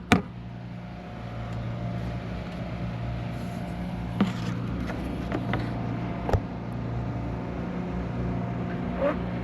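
A steady low mechanical hum from a running machine, with a couple of light knocks about four and six seconds in.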